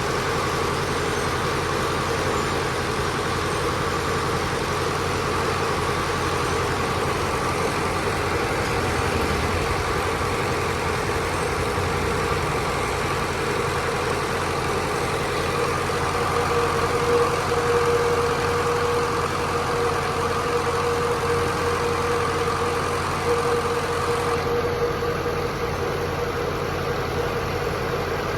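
Steady machinery hum in a brass-forging setup built around a power press, with a constant drone and no single press stroke standing out.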